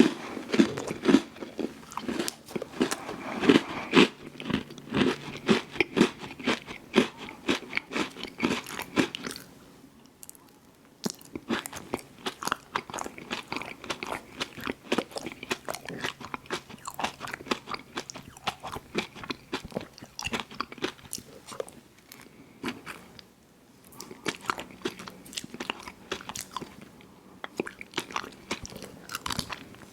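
Biting and chewing an ice cream sandwich, with crunching. It is loud and rapid for the first nine seconds or so, then turns to softer chewing with two brief lulls.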